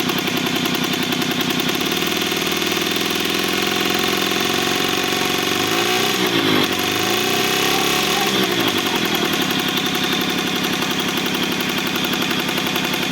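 Puch Pony Express moped's small two-stroke engine idling steadily, revved up briefly about halfway through and falling back to idle.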